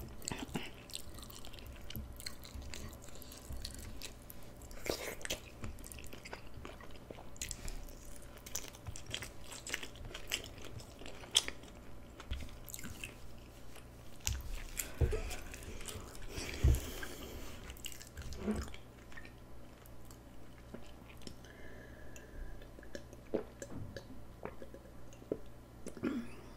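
A person chewing and biting food close to the microphone, with crunchy bites and many short mouth clicks.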